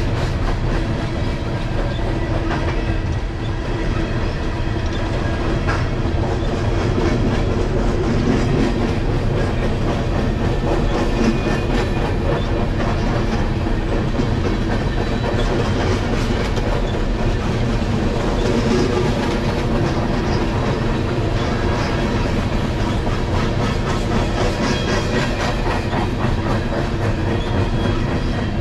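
A train rolling steadily past, its wheels clattering over the rails in a continuous clickety-clack.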